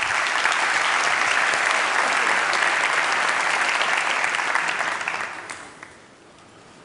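Audience applauding, a dense clapping that fades away about five seconds in.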